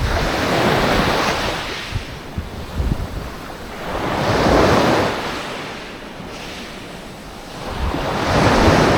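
Sea waves breaking and washing up the shore, three surges rising and falling about four seconds apart, with wind buffeting the microphone.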